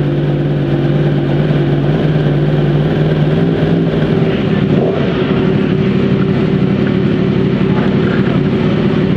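Race-prepared Yamaha superbike engine running steadily on the paddock stand, with no revving. Its note shifts slightly higher about halfway through.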